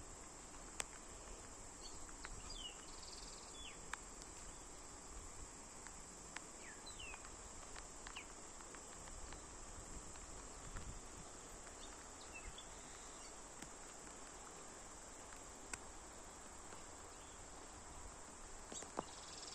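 Steady high-pitched insect drone, with scattered short, falling bird chirps and a few sharp clicks.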